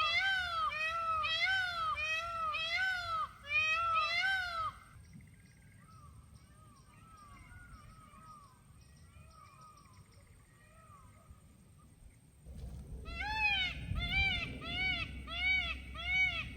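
An animal calling over and over in short meow-like notes, each rising then falling in pitch, about two a second. The calls fade to faint for several seconds in the middle and return loud about three-quarters of the way through, joined by a low rumble.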